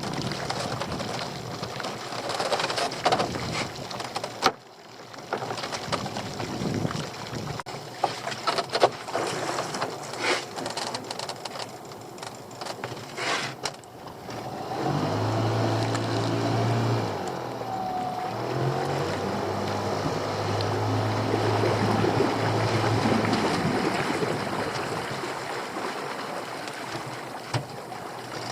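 Wind and water noise with scattered knocks on a small boat, then about halfway the boat's engine running with a steady low drone whose pitch steps up and down as the throttle changes.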